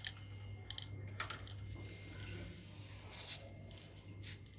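A few short, sharp clicks and scratchy taps over a steady low hum.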